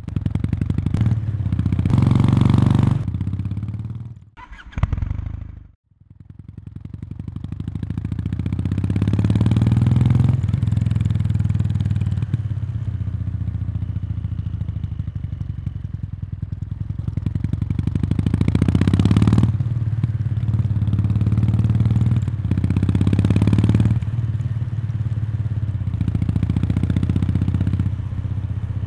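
Kawasaki Meguro K3's air-cooled parallel-twin engine running through its stock muffler, close to the exhaust outlet. The note rises and falls several times. About four to six seconds in it drops away almost to nothing for a moment, then builds back up.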